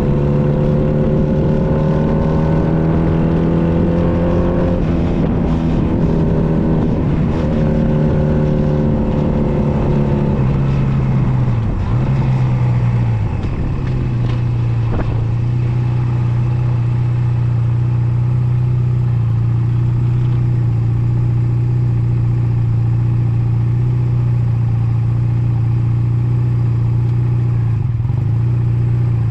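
Honda Nighthawk 250's air-cooled parallel-twin engine under way. Its pitch climbs slowly for the first few seconds, dips and recovers about twelve seconds in, then holds steady at a cruise, with a short dip near the end.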